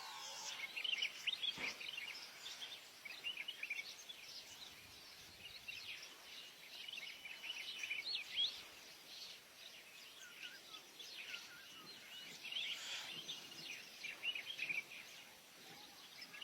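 Faint birdsong: many short high chirps and whistles scattered throughout, over a soft background hiss.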